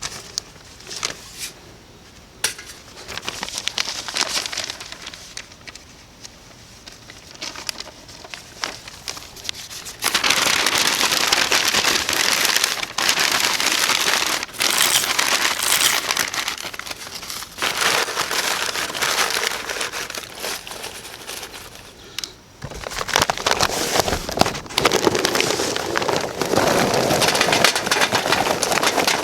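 Crackling, crinkling noise with many sharp clicks. It turns much louder about ten seconds in, drops briefly just after 22 seconds, and comes back louder again.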